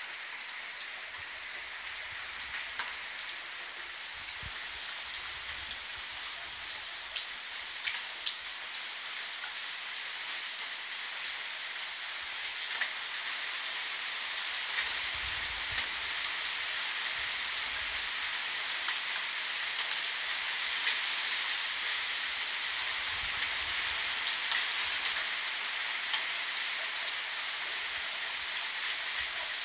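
Steady rain falling: a constant hiss with scattered sharp ticks of individual drops.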